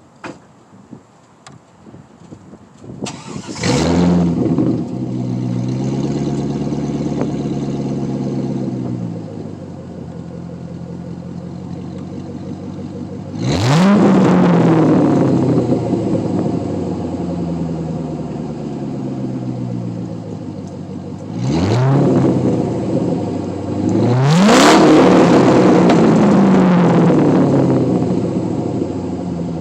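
C5 Corvette's 5.7-litre V8 through a muffler-delete exhaust with an X-pipe, started up after a few clicks: it catches about three and a half seconds in, runs at a fast idle that settles lower, then is revved three times, the pitch falling slowly back to idle after each.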